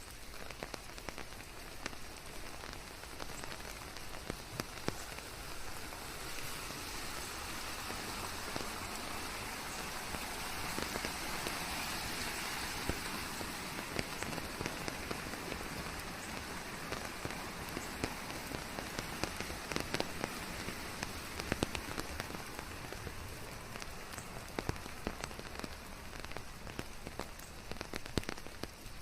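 Steady rain falling, a dense hiss with many separate drops pattering on leaves, swelling a little louder in the middle.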